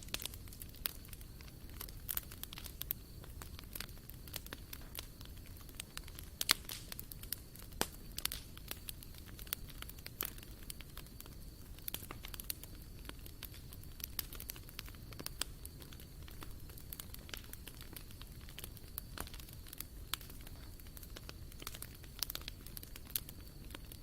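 Wood campfire crackling, with frequent sharp, irregular pops and snaps over a steady low rush of burning.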